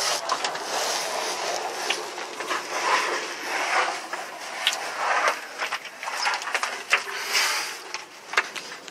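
Rustling, scraping and scuffing of people moving through a narrow rock cave, in uneven swells, with many scattered sharp clicks and knocks.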